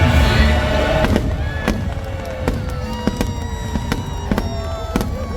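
Fireworks bursting in a rapid, uneven run of sharp bangs and crackles, with a few sliding whistles. The last chord of the show music is fading out in the first second.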